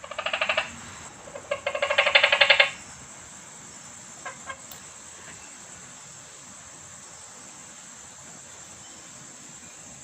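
Frogs calling: two loud, rapidly pulsing calls in the first three seconds, then a faint short call about four seconds in.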